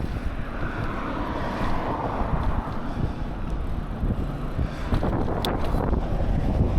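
Wind buffeting the microphone while riding a bicycle: a steady low rumble with a rushing hiss that swells for a couple of seconds near the start.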